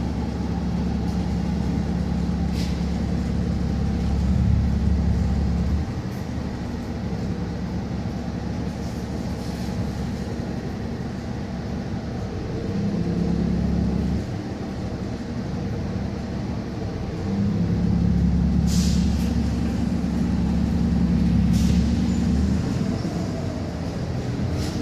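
City bus running, heard from inside: its engine drone swells for several seconds at a time and eases off in between, as the bus pulls away and slows. A few short hisses come through, about three seconds in and twice near the end.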